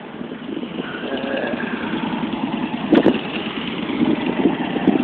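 A motor vehicle's engine running and growing louder, with a sharp click about three seconds in.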